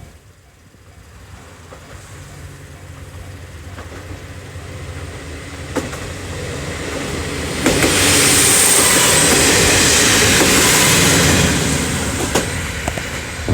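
JR Kibi Line diesel railcar approaching and passing a level crossing. Its engine and wheel noise grow louder over several seconds, are loudest for about four seconds as it goes by, then ease off, with sharp clacks of the wheels over rail joints. A level-crossing warning bell rings at the start and is soon drowned out.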